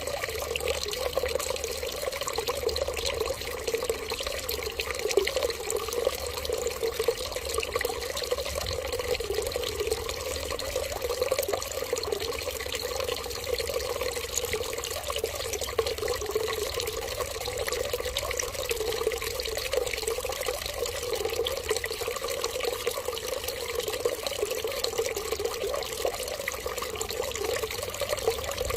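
Water running in a steady, unbroken trickle, like a tap left running, with no change in flow.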